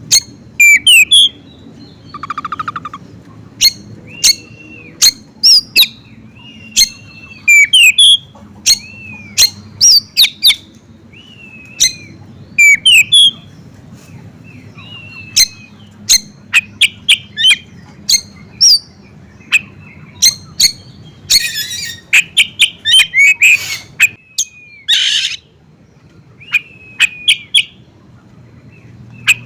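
Songbird singing: a fast run of sharp chirps and short whistled notes that slide up and down, with a few harsh, raspy bursts about three quarters of the way in, over a faint steady low hum.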